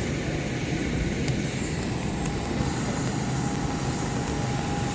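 Steady noise of a jet airliner during boarding, with a thin high-pitched whine held over it.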